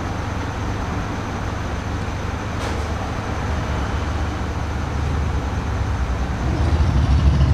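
Car engine idling with a steady low rumble that grows somewhat louder over the last couple of seconds, and a single light click about two and a half seconds in.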